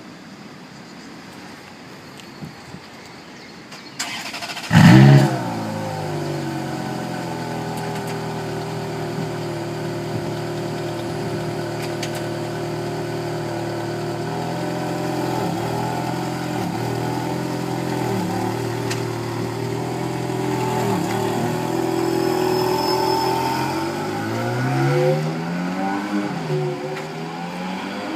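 Ferrari 430 Scuderia's 4.3-litre V8 starting about five seconds in with a loud flare of revs, then settling into a steady idle; near the end it is revved up and down a couple of times.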